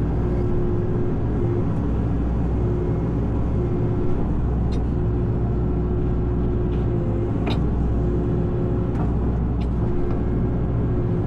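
Hitachi excavator's diesel engine running steadily, heard from inside the cab, with a mid-pitched tone that comes and goes and a couple of sharp clicks.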